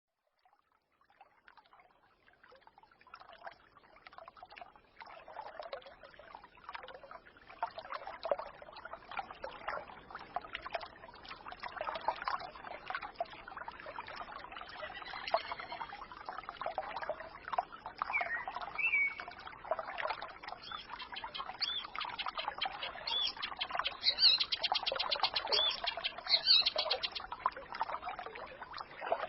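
Small forest stream trickling and babbling, fading in from silence over the first few seconds. Songbirds chirp over the water, with short rising calls around the middle and a rapid high trill near the end.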